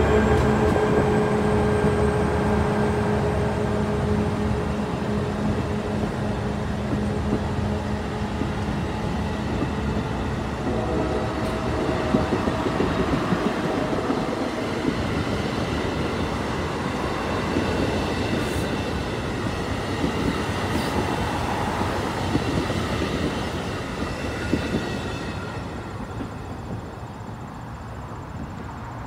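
NJ Transit multilevel passenger coaches rolling past on the rails with a steady wheel-on-rail rumble and clatter. A steady drone fades out over the first several seconds, and the whole sound dies away over the last few seconds as the end of the train moves off.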